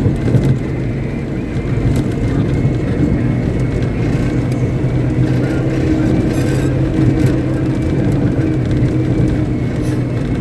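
Caterpillar 777D haul truck's V8 diesel engine running steadily with a deep, even hum during a stationary ground test.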